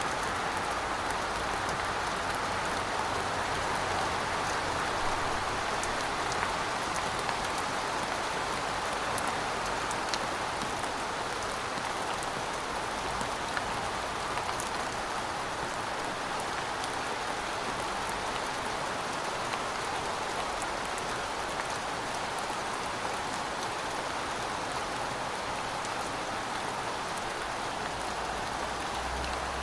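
Heavy rain falling steadily, a dense even hiss of drops with scattered small patters.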